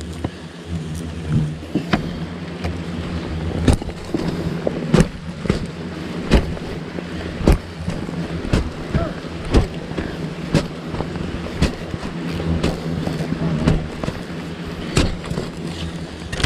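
Repeated strikes of a machete blade chopping into earth, about one a second, as a ground nest is dug out, over a steady low hum.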